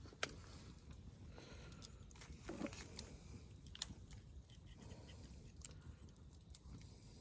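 Faint eating sounds: chewing and scattered small clicks, with a brief low voice-like sound about two and a half seconds in.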